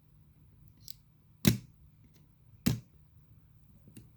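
Sharp clicks and taps of fingers prying at the stiff opening hood of a small die-cast model pickup truck: two loud clicks about a second apart, with fainter ticks before and after.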